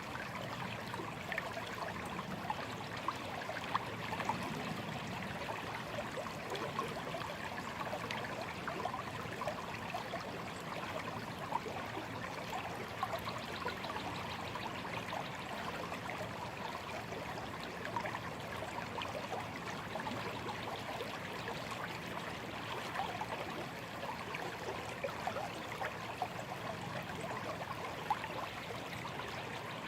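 A small, shallow stream flowing and trickling steadily, with constant fine babbling and splashing.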